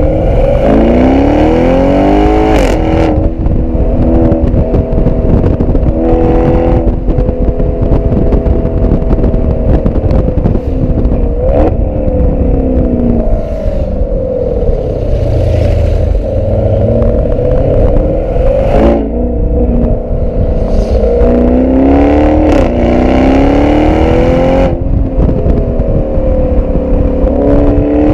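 Tuned Audi RS6 C7 twin-turbo V8 through an Akrapovic exhaust, driven hard: the revs climb and drop again and again as it accelerates and shifts, with sharp exhaust cracks at several points.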